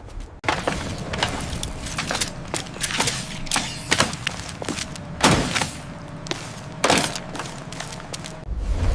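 A rapid, irregular series of clicks and knocks, loudest about five and seven seconds in, over a faint steady tone.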